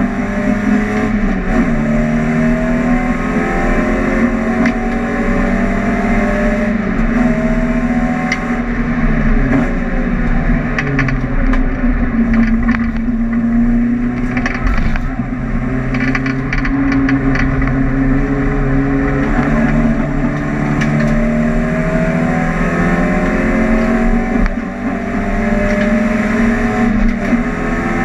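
VW Golf GTI race car engine heard from inside the cabin, pulling hard under acceleration. Its note climbs in pitch through each gear and drops back at every shift, and it sags lower for a couple of seconds about ten seconds in.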